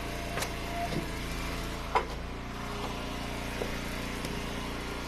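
Eastonmade Ultra wood splitter's engine running steadily, with a few sharp knocks from the ash rounds being split and handled; the loudest comes about two seconds in.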